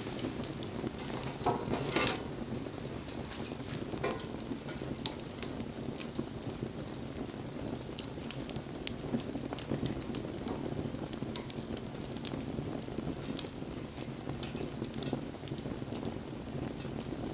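Wood fire burning with a steady low rush and scattered sharp crackles and pops, and a brief hiss about two seconds in.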